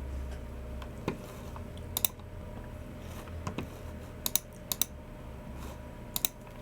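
Unhurried typing on a Logicool MX Keys Mini low-profile scissor-switch keyboard, soft scattered keystrokes, with a few sharp clicks, several in quick pairs, from the keys and a Logicool G304 mouse. A steady low hum runs underneath.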